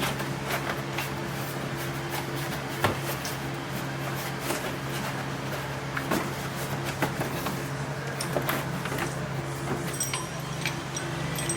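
Scattered light knocks and clicks, several a second at times, over a steady low hum.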